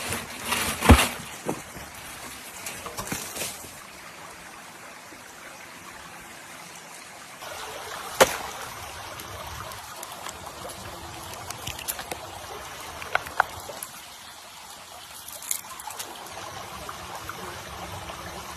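Water trickling steadily, with a few sharp clicks and knocks over it, the loudest about a second in.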